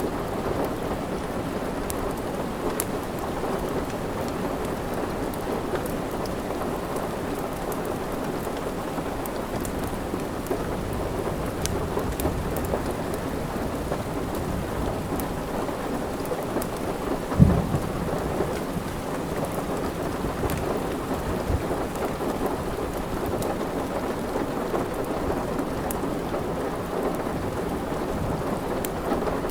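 Steady rain with a low, continuous thunder rumble, with a brief louder low thump of thunder about two thirds of the way through. Faint scattered crackles, as from a wood fire, sit over the rain.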